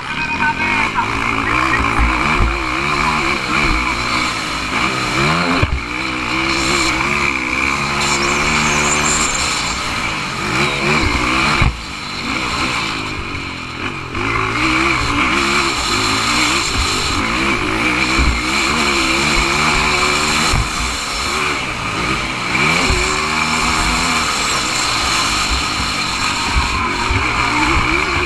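Several motocross motorcycles racing, their engines overlapping and repeatedly revving up and falling back in pitch as they accelerate and shift.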